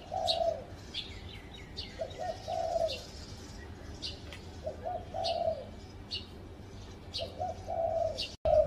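Spotted dove cooing: a short run of low notes ending in a longer held coo, repeated about every two and a half seconds, four times. Short high chirps from another small bird come in about once a second.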